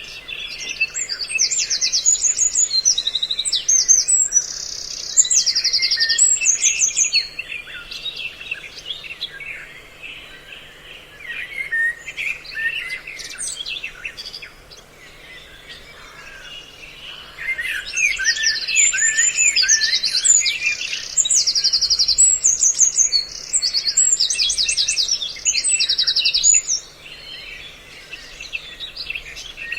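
A mix of several songbirds' calls played as a bird-trapping lure: fast, high chattering phrases repeated in loud bursts over busier, lower chirping, with a quieter lull about halfway through. A faint steady low hum sits underneath.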